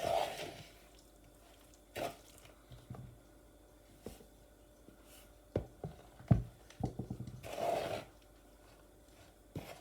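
Scattered knocks and clinks of a spoon and bowl as cake mixture is mixed by hand, with a quick cluster of knocks about six seconds in.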